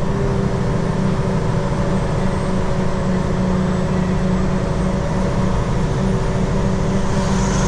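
Semi truck's diesel engine and road noise heard inside the cab, a steady drone with a low hum, with a brief hiss near the end.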